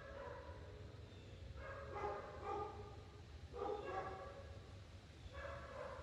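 A dog barking in the distance, a short bark every second or two, some in quick pairs, over a steady low rumble of wind.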